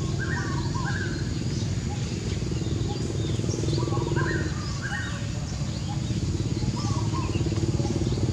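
A bird repeating the same short phrase of two or three quick notes about every three seconds, over a steady low hum.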